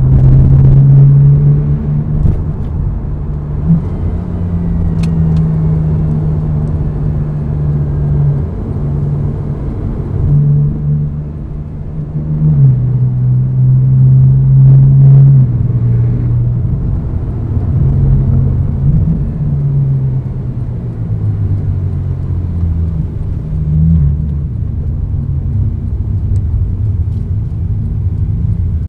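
Porsche 997.2 Carrera 4S 3.8-litre flat-six running through an exhaust with both side mufflers removed: a loud, low exhaust drone whose pitch steps up and down every few seconds, dropping noticeably about twelve seconds in.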